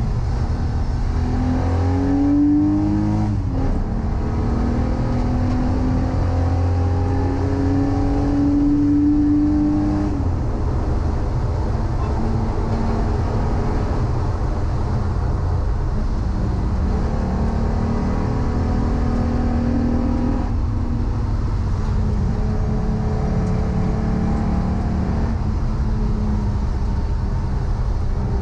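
Volkswagen Corrado's VR6 engine pulling under load on track, its note climbing with the revs, dropping sharply at a gear change about three seconds in, then a long climb to about ten seconds. It eases off and pulls up again briefly around twenty seconds.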